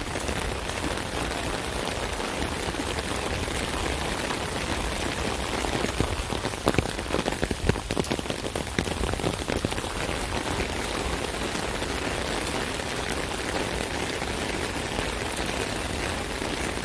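Rain falling on an umbrella, a steady dense patter of drops on the canopy, with a cluster of louder, sharper drop strikes for a few seconds in the middle.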